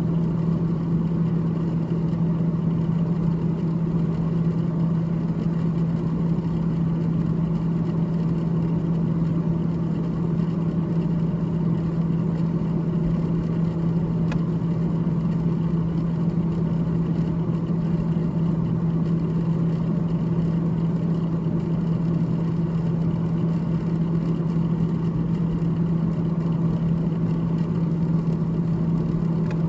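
The freezer fan of a GE GTH18XCTZRBB refrigerator running continuously, giving a steady low hum with a whirring noise around it.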